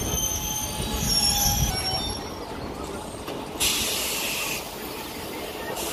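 Passenger train's wheels and brakes squealing with a low rumble as it comes to a stop; the squeal dies away about two seconds in. Near the middle comes a sudden hiss of air from the brakes, lasting about a second.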